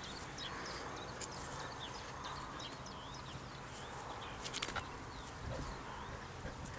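Small birds chirping in many short, high calls throughout, with a couple of sharp clicks about four and a half seconds in.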